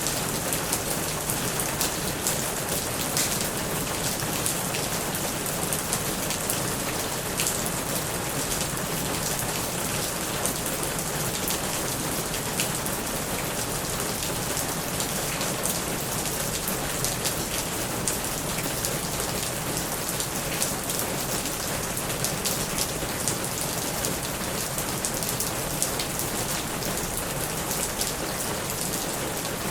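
Steady heavy rain drumming on a plastic roof, a constant hiss dotted with many sharp individual drop ticks.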